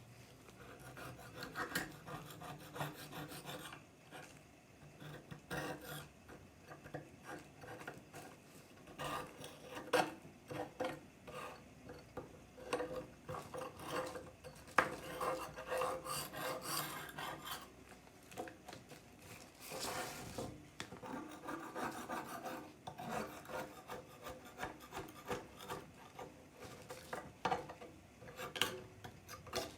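Hand scraping and rasping on the rusty steel blade of an old machete, in irregular back-and-forth strokes with brief pauses, as the rust is worked off.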